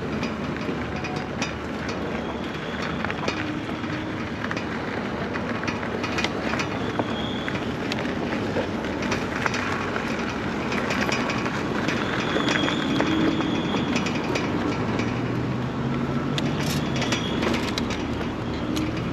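Electric bike rolling over a rough dirt and gravel track: a steady crunch of tyres on loose ground with frequent rattles and clicks from the bike.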